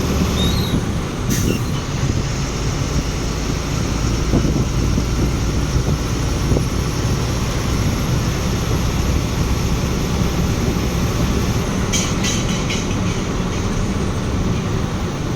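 Truck on the move heard from inside the cab: a steady rumble of engine and road noise, with brief rattles about a second in and again around twelve seconds in.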